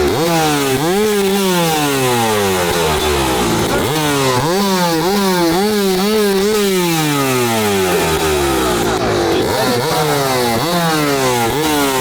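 Yamaha YZ250 two-stroke dirt bike engine fitted with a very short FMF silencer, loud and angry, revved in repeated sharp throttle blips: each time the pitch jumps up and falls back toward idle. There is a fast run of smaller blips around the middle.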